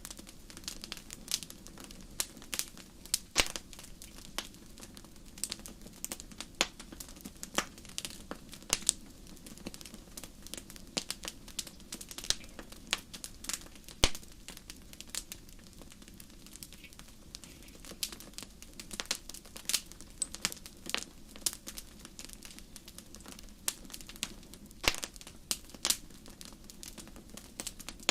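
Fire crackling: irregular sharp pops and snaps, at times several a second, over a low steady rush.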